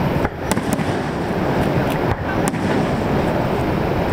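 Aerial fireworks display: a few sharp pops and crackles of shells bursting over a steady rushing roar that comes from Niagara Falls.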